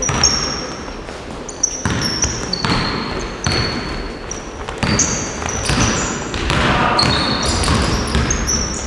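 Basketball practice in a gym: many short, high sneaker squeaks on the court floor and basketballs bouncing, with a busy, echoing hall noise and faint voices underneath.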